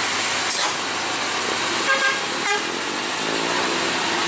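Road traffic with engines running under a steady roar, and two short vehicle-horn toots about two seconds in.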